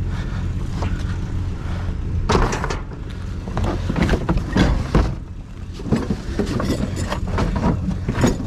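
Pickup truck engine idling with a steady low hum, overlaid by bursts of knocks and rattles starting a couple of seconds in and again near the end.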